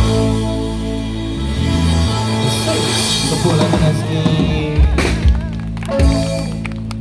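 Live band playing the closing bars of a rock song: sustained guitar and bass chords ringing under drum kit hits, with a few sharp drum strikes about five and six seconds in.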